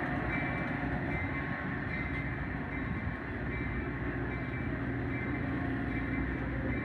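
Metra commuter train's stainless-steel bilevel coaches rolling past close by: a steady rumble of steel wheels on the rails, with a faint high steady tone above it.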